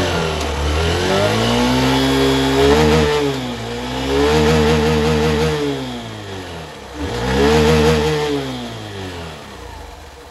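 Hero Passion Pro motorcycle's single-cylinder four-stroke engine revving up and back down three times, the pitch rising and falling smoothly each time.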